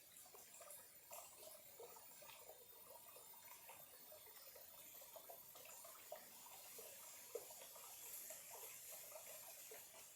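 Small, clear stream trickling faintly, with many small irregular water plinks over a soft steady hiss.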